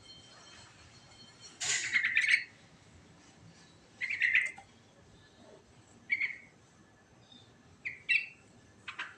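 Yellow-vented bulbul (trucukan) singing short phrases with pauses between them, five phrases in all. The first, about a second and a half in, is the longest and loudest.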